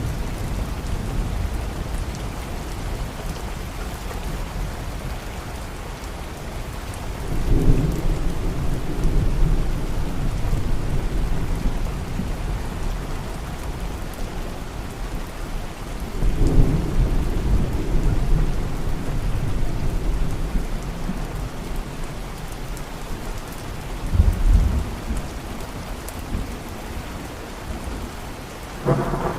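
Steady rain falling, with low rolls of thunder swelling up about 7 s, 16 s and 24 s in, and another starting just at the end.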